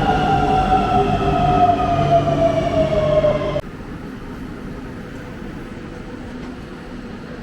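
Train running, with a whine of several tones falling steadily in pitch over a low rumble. About three and a half seconds in it cuts off suddenly, leaving a quieter steady noise.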